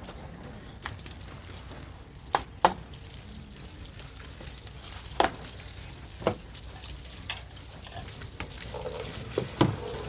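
Food sizzling in a pan as it is stirred, with a steady frying hiss and several sharp knocks of the utensil against the pan, the loudest a pair about two and a half seconds in and another near the end.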